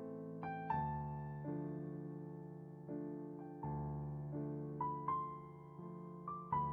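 Slow, gentle piano music: sustained chords and single melody notes struck about once a second, each ringing and fading away.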